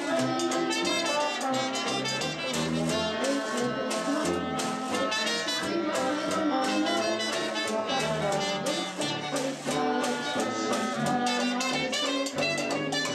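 Jazz band playing an instrumental passage, horns carrying the tune over a steady beat.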